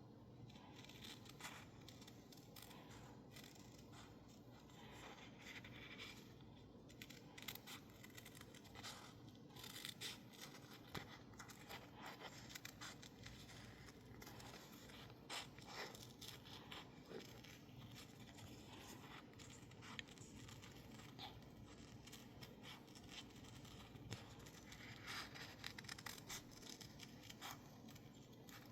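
Scissors cutting sticker label paper: faint, irregular snips with light paper scraping.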